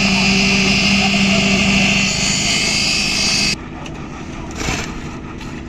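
Heavy engine-driven machinery running loudly with a steady low hum and a hiss. It cuts off abruptly about three and a half seconds in, leaving quieter background noise with a brief clatter.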